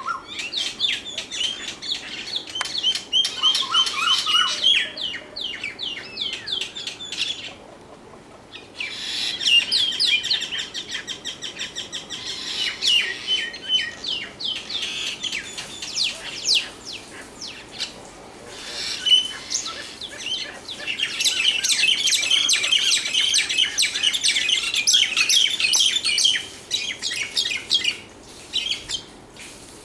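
Birds chirping in rapid runs of short, high chirps and trills, with a brief pause about eight seconds in and a quieter spell near the end.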